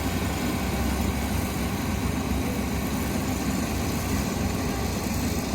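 Kubota ER470 combine harvester's diesel engine running steadily, a constant low drone.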